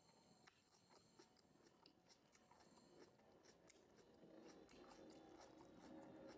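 Faint close-up chewing of raw vegetables, with soft irregular crunches and wet mouth clicks. A steady low noise grows louder from about four seconds in.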